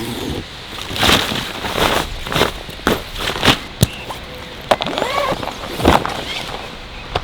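A series of irregular thuds, about two a second, with a brief gliding whine about five seconds in.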